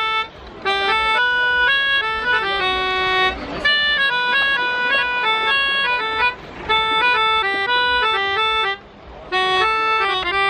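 Music: a lively melody on an accordion, quick stepping notes with a few brief breaks.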